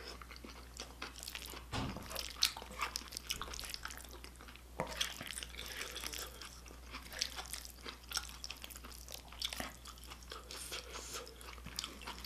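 Close-miked chewing and wet mouth smacking of stir-fried octopus and rice, heard as many small, irregular clicks and smacks. Chopsticks work through the saucy food in the pan.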